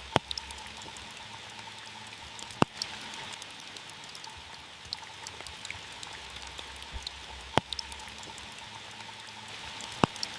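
Heavy rain drumming steadily on a car's roof and body, with many small drop ticks and four louder single drop strikes a few seconds apart.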